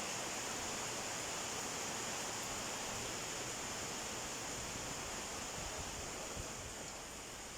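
Heavy tropical rain pouring down in a steady, dense hiss, easing slightly near the end.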